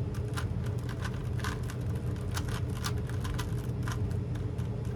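Plastic twisty-puzzle cube being turned quickly by hand: a rapid, irregular run of clicks and clacks as the layers snap round. Under it runs a steady low hum.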